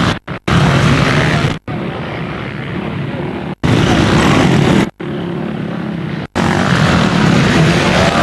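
Enduro motorcycle engine running hard, heard from a helmet camera with rushing wind. It alternates between louder and quieter stretches of a second or so, and the sound cuts out abruptly for split seconds several times.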